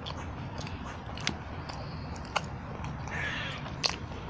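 A person chewing food close to the microphone, with scattered small wet mouth clicks over a steady low background hum.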